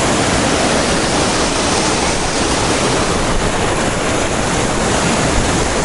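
Waterfall pouring over sandstone: a steady, loud rush of falling water.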